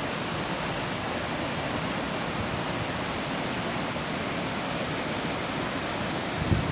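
Steady rush of flowing water, an even hiss without let-up. A brief low thump near the end.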